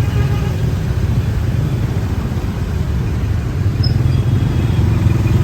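Steady low rumble of a motor vehicle on the move in road traffic.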